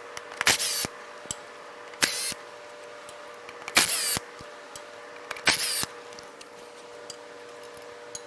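Four short bursts of a power tool, about a second and a half apart, over a faint steady hum.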